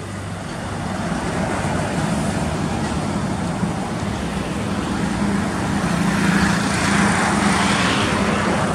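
Road traffic noise with a truck's engine running: a steady low hum under a rush of tyre and road noise that grows louder over the last few seconds.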